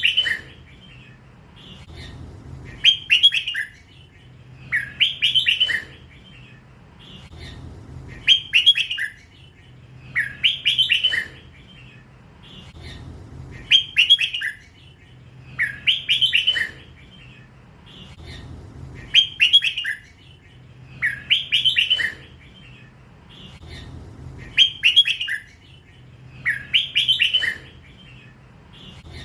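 Red-whiskered bulbul singing a short bubbling phrase over and over, about one phrase every two and a half seconds. This is the 'lak wai' song style that Thai bulbul keepers listen for.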